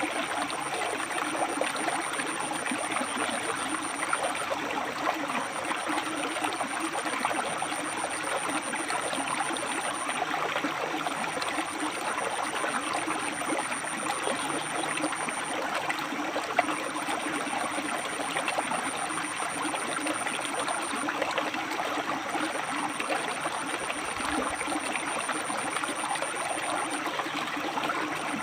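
River water flowing and splashing over rocks, a steady rushing and trickling. A thin high tone comes and goes over it, running about five seconds at a time with short gaps.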